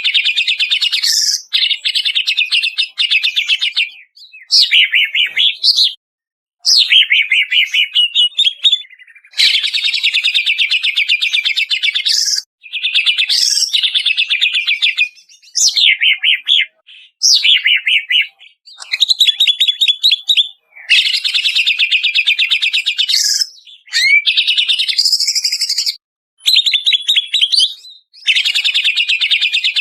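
Green leafbird (cucak ijo) singing loud, fast phrases of rapid chattering notes and sharp rising and falling whistles, each burst one to three seconds long with short pauses between.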